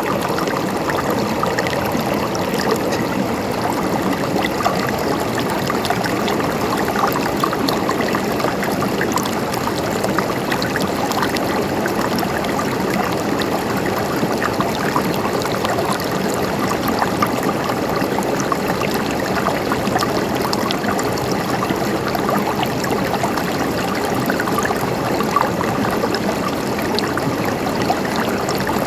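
A mountain stream flowing and trickling steadily, with many small splashes and gurgles over an even rush of water.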